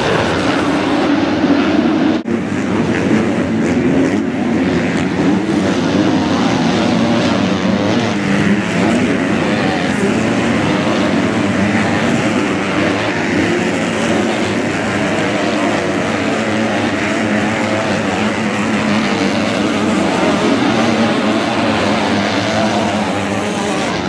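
Motocross bikes' engines running at race speed, a dense, steady mix of several engines, with a brief break about two seconds in.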